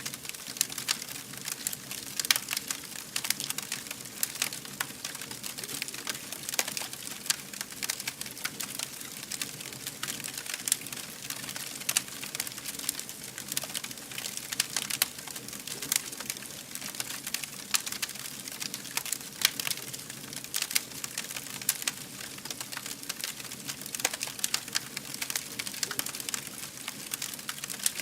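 A fire crackling steadily: many sharp snaps and pops at irregular moments over a soft hiss.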